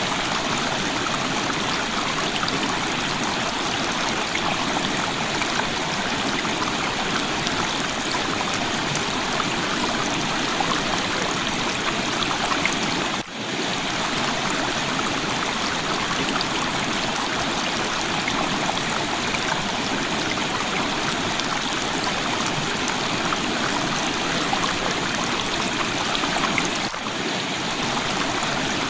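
River water flowing and rushing steadily, with a brief dip in the sound about halfway through.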